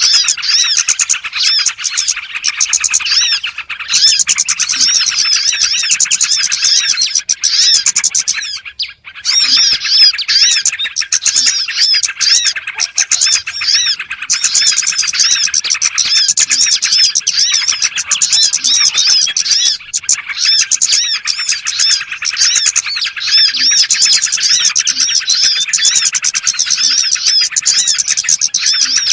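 Dense, continuous chirping and twittering of many small songbirds, fast overlapping calls: a bird-lure recording used to call small birds in. The chorus breaks off briefly about nine seconds in.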